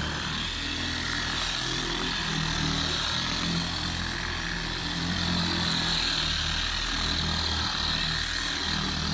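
Electric car buffer (polisher) running steadily on a car hood's paint, a continuous motor hum with a high whine over it.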